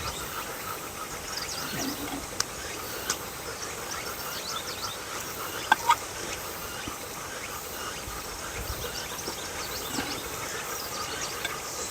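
Outdoor background of insects chirping in a steady, regular high pulse, with many short high chirps and a few sharp clicks, the loudest pair about six seconds in.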